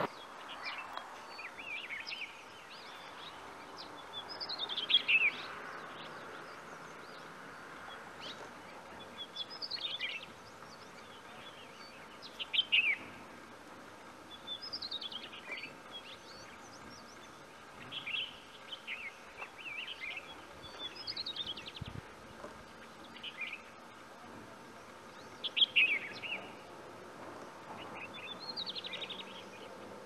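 Wild birds singing: short falling chirped phrases, repeated every two to three seconds, some louder and nearer than others.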